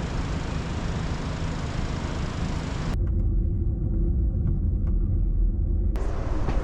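Steady running rumble and noise of a moving passenger train. About three seconds in it cuts abruptly to a deeper, muffled rumble, then cuts back to the fuller noise near the end.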